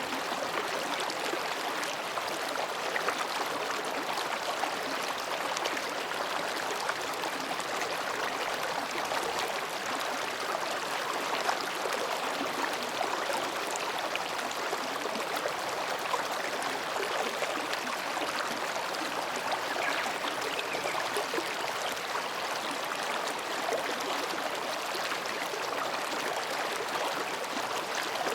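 Mountain stream babbling steadily as it flows between rocks.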